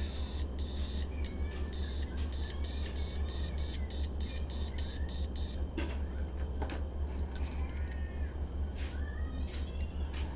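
Washing machine control panel beeping: a high-pitched beep repeating, first in longer beeps, then in quick short beeps about four a second, stopping about five and a half seconds in. A few clicks and knocks follow over a steady low hum.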